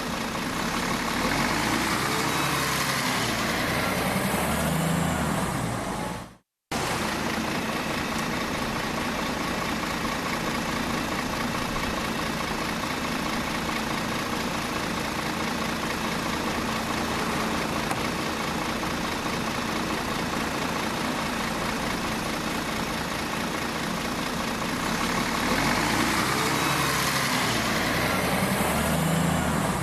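Steady, even engine-like running noise, like an idling vehicle. It cuts out completely for a moment about six seconds in, then carries on unchanged.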